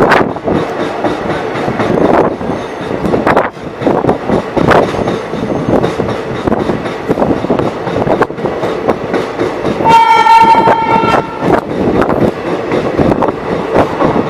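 Indian Railways train running past at speed, its wheels clattering over rail joints in a steady rush of noise. A train horn sounds once, steady in pitch, for just over a second about ten seconds in.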